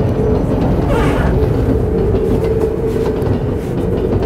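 Passenger train carriage running on the rails, heard from the vestibule between cars: a steady rumble with a constant hum, and a brief rattle about a second in.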